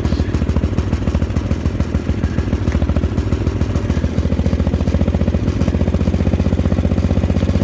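Gravely 8163B garden tractor's 16 hp Briggs & Stratton engine running steadily with a fast, even beat, just after a cold start in the snow.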